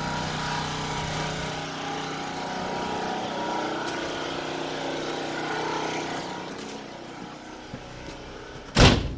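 Portable generator's small gasoline engine running steadily, dropping somewhat in level after about six and a half seconds, then a brief loud thump near the end.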